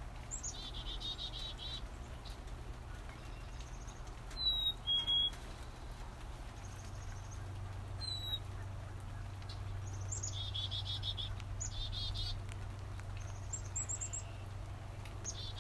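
Black-capped chickadee calls played from a phone's bird-call app, with chickadees calling back: several series of buzzy "chick-a-dee-dee-dee" notes, and about four seconds in a loud, clear two-note "fee-bee" whistle, the second note lower, followed by a single whistled note a few seconds later.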